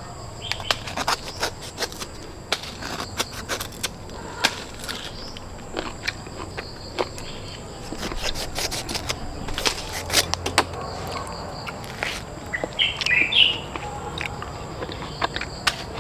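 Rural outdoor ambience: scattered sharp clicks and rustles of someone moving and handling things, over a steady high-pitched whine. A bird chirps briefly about thirteen seconds in.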